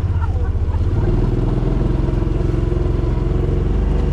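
Vehicle engine running while driving, heard from on board; its tone changes about a second in.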